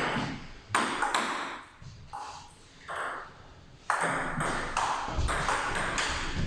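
A table tennis rally: the ball clicks sharply off the bats and the table, one hit after another at an uneven pace of roughly one to two a second.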